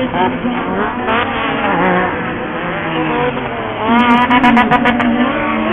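Several off-road racing buggy engines running and revving at once, their pitches rising and falling. They get louder about four seconds in.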